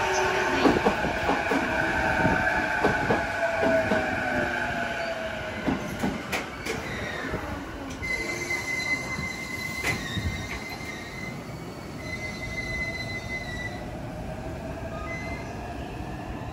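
Keihin-Tohoku Line E233-series electric train pulling out and going away: clattering wheels and a falling whine, loudest at first and fading over the first six seconds. Then a thin, high, steady wheel squeal from about eight seconds in to about fourteen.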